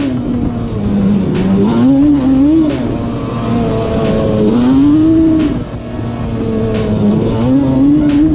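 Yamaha Banshee 350's twin-cylinder two-stroke engine, bored out with a Cheetah 426 big-bore kit, being ridden hard: the revs climb and drop several times as the throttle is worked, with short sharp crackles along the way.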